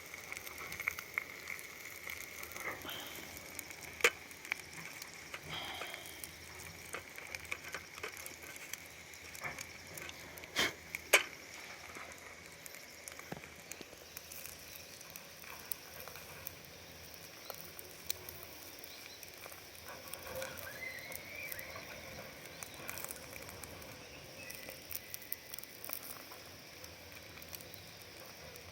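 Wood campfire crackling over a steady sizzling hiss, with scattered sharp pops and a few louder cracks about four seconds and eleven seconds in.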